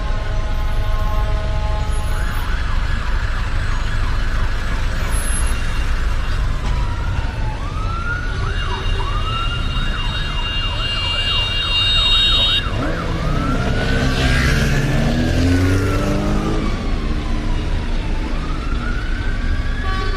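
Emergency vehicle sirens sounding over a constant low rumble of street traffic: slow wails, then a fast yelp of about three sweeps a second, then long slow wails again. A steady multi-tone alarm stops about two seconds in.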